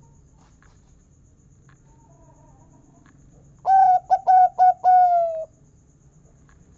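Zebra dove (local perkutut) cooing one song phrase: an opening note, a quick run of short notes, then a long, slightly falling final 'kung' note.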